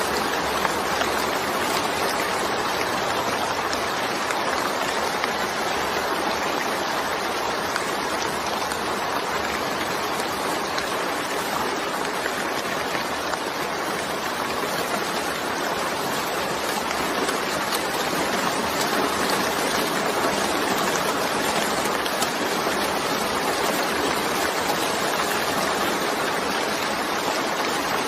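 Steady rain falling, a dense, even wash of noise that holds the same level throughout.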